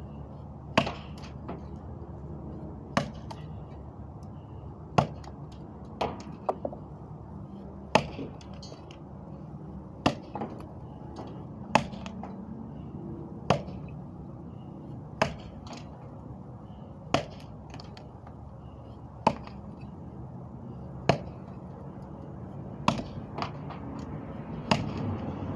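Sharp knocks or chopping strikes repeating about every two seconds, a few in quick pairs, over a steady low hum.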